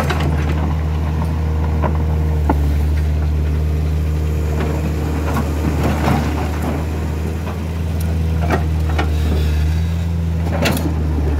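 A truck engine running steadily at low revs, a deep even hum, with occasional knocks and clanks.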